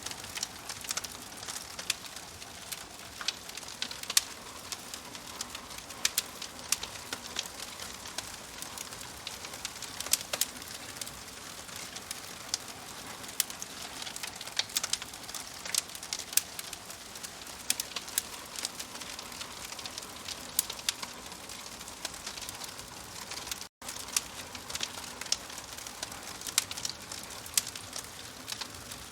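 Wood fire in a fireplace crackling steadily, with frequent sharp pops and snaps over a soft hiss. The sound cuts out for a split second about two-thirds of the way through.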